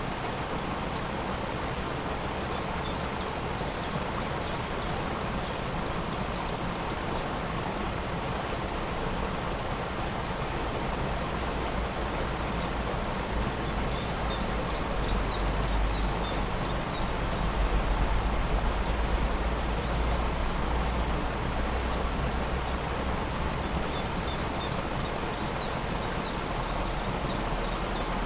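Waterfall rushing steadily, with a deeper rumble swelling for a while in the middle. A songbird sings a quick run of high, falling notes three times, about ten seconds apart.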